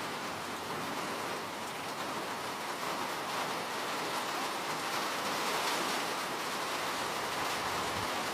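Steady rainfall: a continuous even hiss of rain falling, with no distinct drops standing out.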